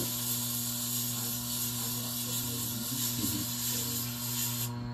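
Plane blade being ground on a Tormek's wet grindstone: a steady hiss of steel rubbing on the turning stone over the grinder motor's hum. The hiss stops suddenly near the end while the hum runs on.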